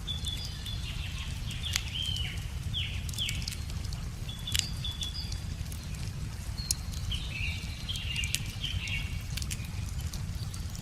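Wood fire crackling with scattered sharp pops, over the low steady rush of a river. A songbird sings short phrases in two bursts, at the start and again about seven seconds in.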